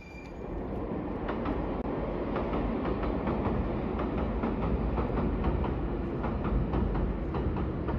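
Electric commuter train crossing a steel girder railway bridge: a steady rumble with a regular clatter of wheels over the rail joints, building up in the first second.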